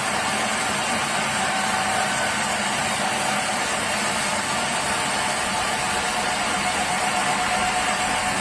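Sawmill machinery running steadily: a constant mechanical noise with a steady hum and a steady whine, unchanging throughout.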